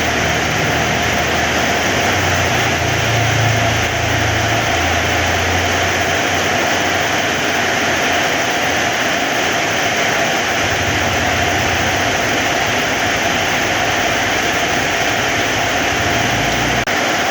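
Heavy rain falling steadily, a loud, even hiss, with a low rumble in the first few seconds and again in the second half.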